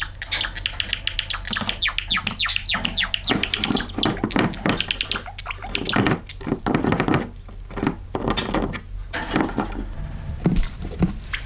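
Pet Java sparrow singing: rapid runs of clicks and short, quick falling notes, densest in the first half.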